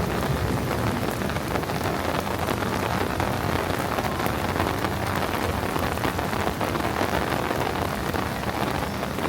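Steady downpour during a thunderstorm: an even rain hiss filled with many small, close-spaced drop ticks.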